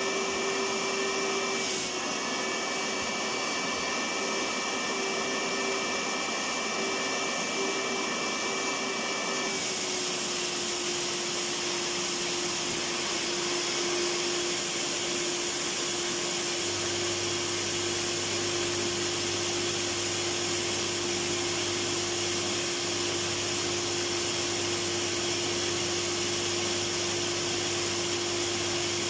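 Vacuum cleaner running steadily: an even rushing of air over a constant motor whine, with a slight change in tone about nine seconds in.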